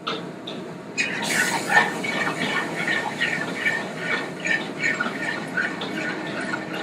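Butter and white wine sizzling and crackling in a hot skillet, a pan sauce being made from the chicken drippings. The sizzle flares up suddenly about a second in and goes on as a dense crackle of small pops.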